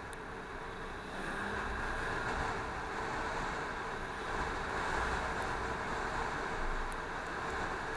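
Yamaha FZ6 motorcycle being ridden, its engine running under a steady rush of wind noise on the microphone. It gets louder about a second in.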